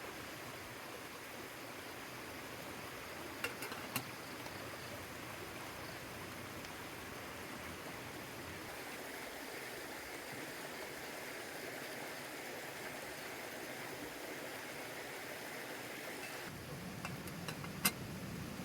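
Steady rain falling, an even rushing hiss, with a few sharp clicks about four seconds in and again near the end.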